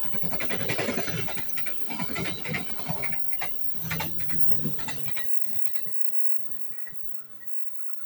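Progo passenger train passing at speed, its wheels clattering over the rail joints in rapid knocks. The clatter is loud at first and fades over the last few seconds as the train moves away.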